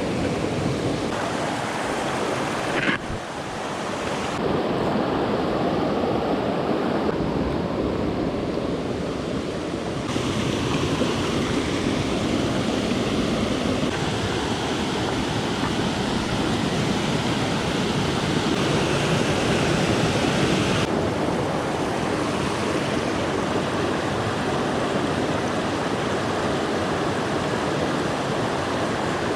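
Steady rush of a small mountain stream running over rocks. Its tone changes abruptly several times.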